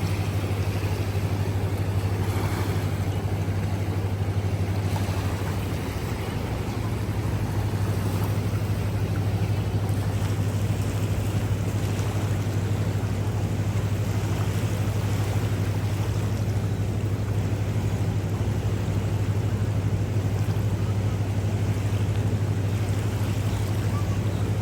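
Swollen river in flood, a steady rushing roar of fast water, with a steady low hum underneath.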